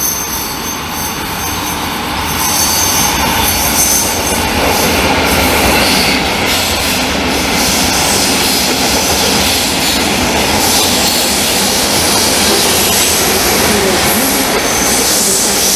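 Koleje Mazowieckie EU47 electric locomotive and double-deck coaches passing through the station: steady wheel-on-rail rolling noise that builds over the first two seconds and then holds.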